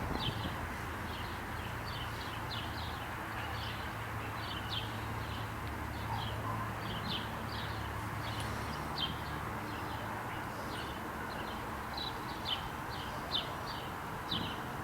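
Outdoor ambience: short high chirps, two or three a second, over a steady low hum and background noise.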